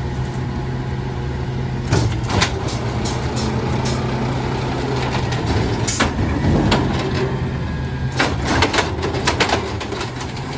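Mack LR compressed-natural-gas garbage truck running steadily with a low engine hum, while a series of sharp metallic knocks and clatters sounds over it from about two seconds in, bunching up near the middle and again toward the end.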